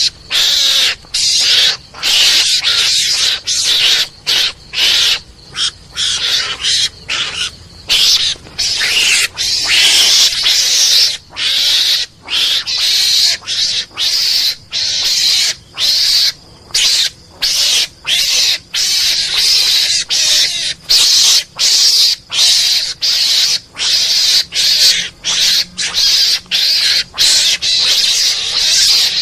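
Mongoose (garangan) lure call: harsh, hissing screeches repeated in rapid, uneven succession, about two a second with short breaks between them.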